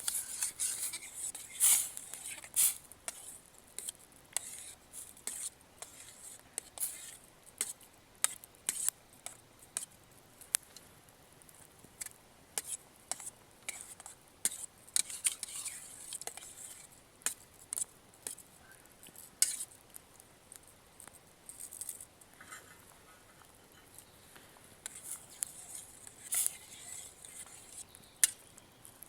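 Light clinks and clicks of a metal cook pot and utensils being handled, scattered irregularly throughout.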